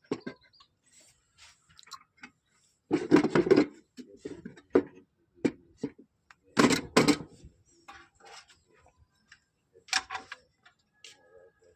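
Hand tools and metal parts clicking, clinking and rattling in irregular strokes while a carburetor is worked on. The two loudest bursts of rapid rattling come about three seconds in and again about six and a half seconds in.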